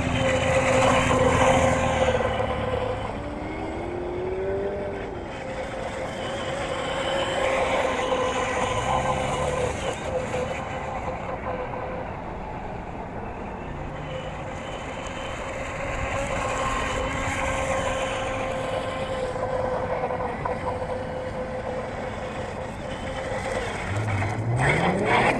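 Small electric motor and propeller whine, holding a steady pitch with smaller wavering tones beneath it, then rising sharply in pitch about a second before the end.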